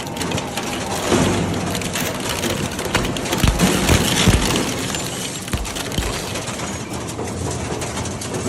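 Industrial shredder tearing through scrap metal: constant grinding and crackling with heavy low thuds, several of them between about three and six seconds in.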